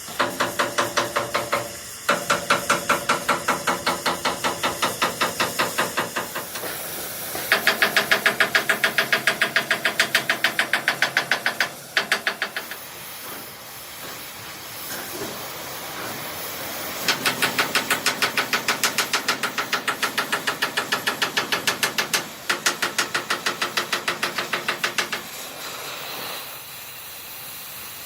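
Steel being hammered in fast runs of about five or six ringing blows a second. The runs stop and restart several times, with short pauses of hissing noise between them.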